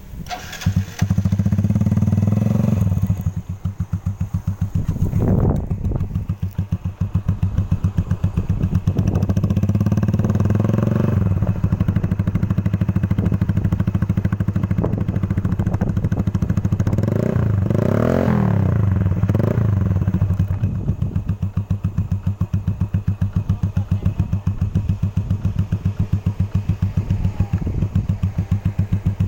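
Yamaha Vega RR's single-cylinder four-stroke engine running through an aftermarket KOU Bluemoon exhaust, mostly a steady idle with a few short throttle blips, the clearest rising and falling in pitch a little past the middle.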